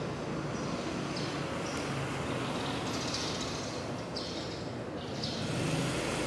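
Steady outdoor background hiss with birds chirping a few times, short high calls about a second apart.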